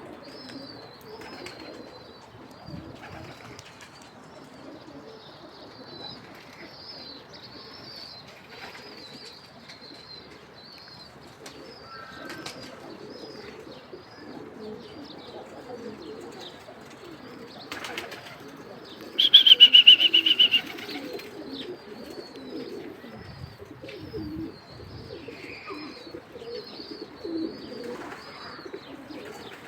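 Domestic pigeons cooing with occasional wing flaps, over a steady run of small repeated high chirps. About nineteen seconds in, a loud, high, rapidly pulsing whistle-like call lasts about a second and a half.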